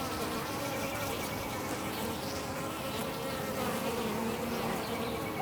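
Italian honey bees buzzing as they fly in and out of a hive: a steady hum of many wings, with faint pitches that waver as single bees pass close.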